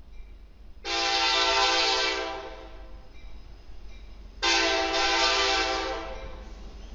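Air horn of a Kansas City Southern EMD SD70MAC locomotive sounding two long chord blasts, the first about a second in and the second past the middle, over the low rumble of the train.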